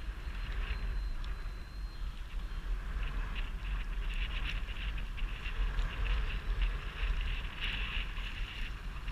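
Wind rumbling on the camera microphone over water slapping and splashing against a jet ski, with a steady crackling hiss that grows busier partway through.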